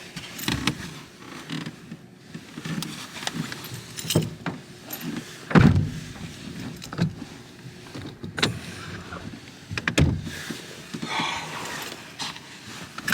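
A string of knocks, thumps and rattles from gear being handled in and around a pickup truck, with rustling between; the loudest thump comes about five and a half seconds in, and another sharp knock comes near ten seconds.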